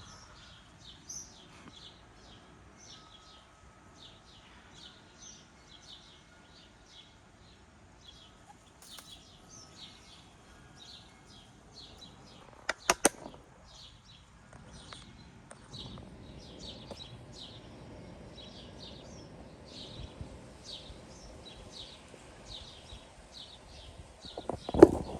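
Small birds chirping in short, high, repeated notes. A few sharp clicks come about halfway through, and a louder thump comes near the end.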